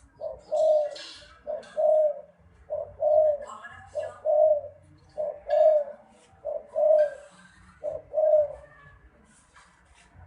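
Spotted dove cooing: a repeated two-note phrase, a short coo followed by a longer one, about seven times at a steady pace.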